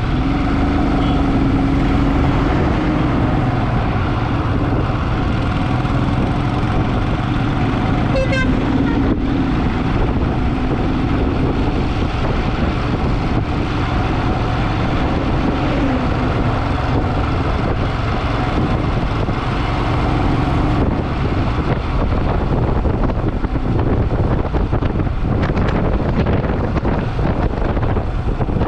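Motorcycle engine running under way, its pitch rising and falling with the throttle, over steady road and wind noise.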